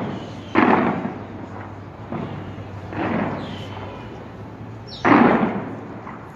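Aerial fireworks shells bursting in booms with rumbling, fading tails: a sharp one at the very start, loud ones about half a second and five seconds in, and a softer one near three seconds.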